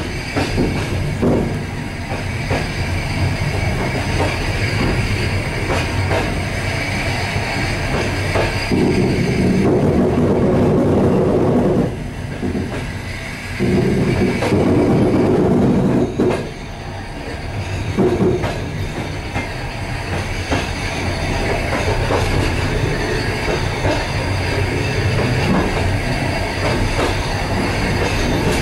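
A suburban passenger train's wheels rumbling and clattering over the rails and station switches, heard from inside the car's end vestibule. The sound is steady, with two louder stretches in the middle.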